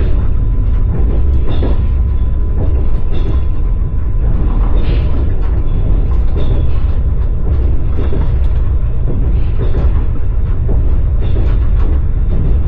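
Passenger train carriage running on the line, heard from inside: a loud steady low rumble with the wheels clacking irregularly over the rails.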